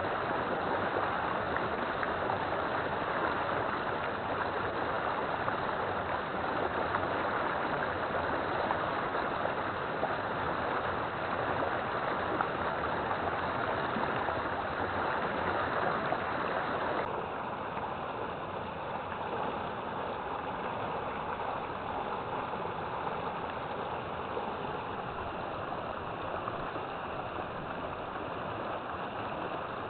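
River water flowing steadily, a continuous rushing sound. A little past halfway it changes abruptly, becoming slightly quieter and less bright.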